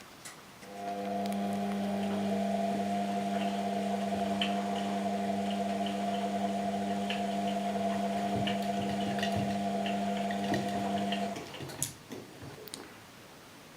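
Washing machine running: a steady motor hum starts about a second in and cuts off suddenly after some ten seconds, with light clicks and water sloshing over it.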